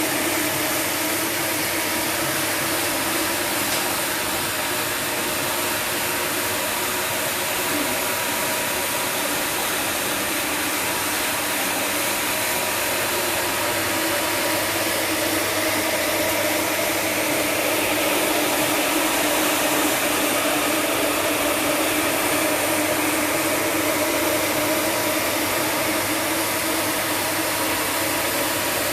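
Electric carpet-washing polisher machine running steadily on a carpet: a continuous motor hum under an even hiss, with the pitch drifting only slightly.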